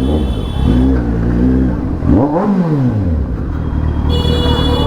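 Kawasaki Z900's inline-four engine idling and being revved in short blips, its pitch rising and falling, with the largest rev about two seconds in. A steady high-pitched tone comes in near the end.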